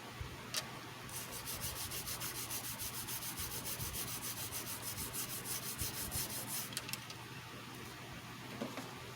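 Rapid back-and-forth rubbing or scrubbing on a surface, about six strokes a second for roughly six seconds, after a single click about half a second in.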